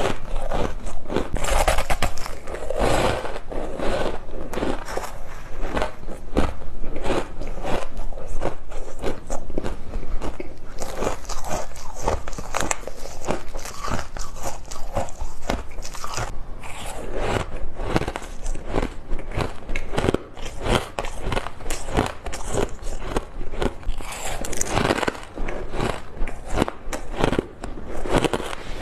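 Ice being bitten and chewed close to the microphone: dense, continuous crackling crunches.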